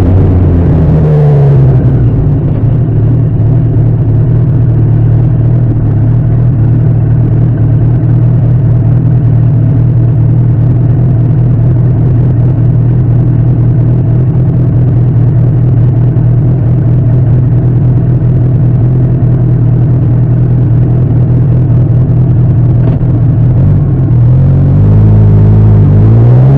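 Suzuki GS1000 inline-four engine of a Bimota SB3 motorcycle under way: revs drop over the first couple of seconds, then hold a steady cruising note, and near the end dip and climb again as it accelerates.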